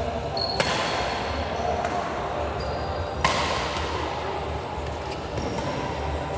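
Badminton rally in a sports hall: two sharp racket strikes on the shuttlecock about two and a half seconds apart, with a few short high squeaks in between.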